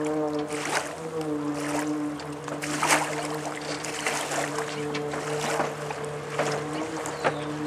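Subaru-based amphibious car running steadily on the water, its engine giving a constant pitched hum, with water splashing and slapping against the hull every second or so.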